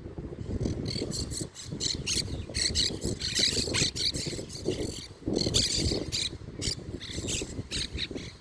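Birds chirping and calling in quick, overlapping bursts, busiest in the middle, over a steady low rumble.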